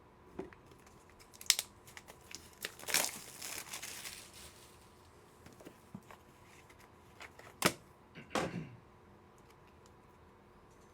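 Plastic trading-card packaging being opened, crinkling and tearing, with a few sharp clicks, the loudest about a second and a half in and near eight seconds.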